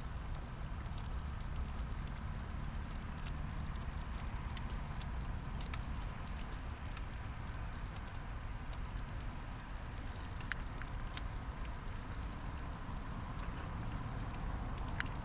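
Wood fire crackling with sparse small pops and clicks over a steady low rumble.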